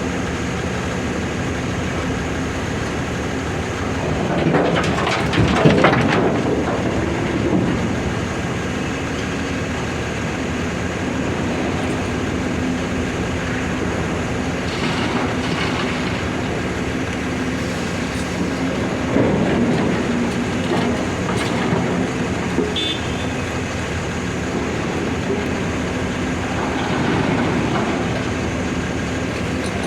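Heavy diesel machinery running steadily while a Volvo excavator loads boulders into an Ashok Leyland tipper truck. There are louder stretches of clattering and scraping about 5, 20 and 27 seconds in.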